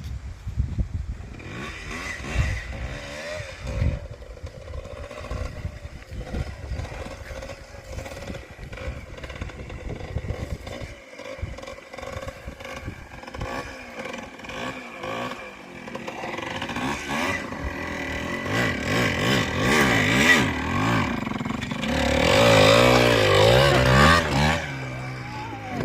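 Yamaha DT125 single-cylinder two-stroke dirt bike engine running with clattering and knocks. The revs rise and waver, and the engine gets louder over the last third, loudest a few seconds before the end.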